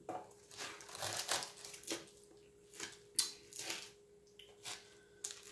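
Crunchy salad chewed close to the microphone: irregular crisp crunches and clicks, several a second, with a fork picking through the salad.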